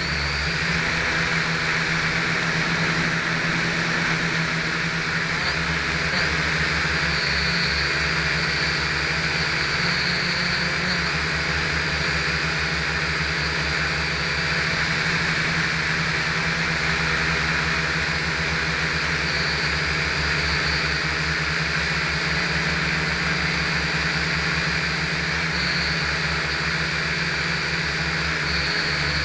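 Small WLtoys V929 quadcopter's motors and propellers running with a steady buzzing whine, heard close up from a camera mounted on the craft.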